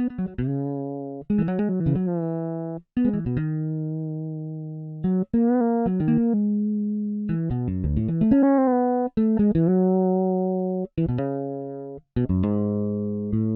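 Toontrack EZbass virtual fretless bass playing a MIDI bass pattern: a run of plucked notes, each ringing and fading, with pitch slides between some of them and short breaks between phrases.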